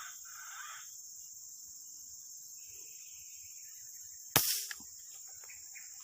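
A single sharp air-rifle shot about four seconds in, fired at a green pigeon and counted a hit, over a steady high drone of insects.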